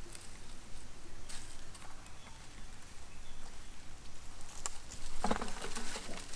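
Light scattered ticks and rustling patter from macaques moving about, with a short, louder pitched sound about five seconds in.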